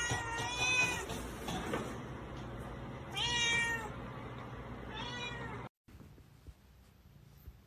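A domestic cat meowing three times: a long meow that ends about a second in, another about three seconds in, and a shorter one near five seconds. The sound then cuts off suddenly to faint background.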